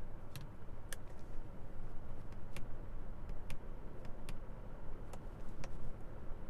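A series of sharp, irregularly spaced clicks, about nine in six seconds, over a steady low hum.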